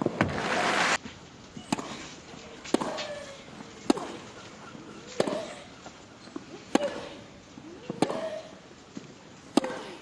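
Tennis rally: about seven sharp racket-on-ball strikes, one every second or so, several with a short grunt from the player hitting. It opens with a burst of crowd applause that cuts off abruptly a second in.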